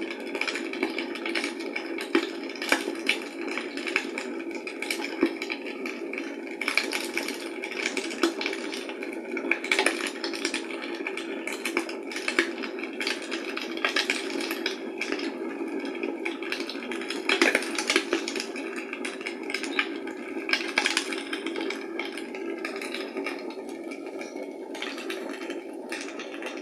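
Fire in a fireplace crackling: a steady hiss with irregular sharp pops and snaps, a few louder ones among them.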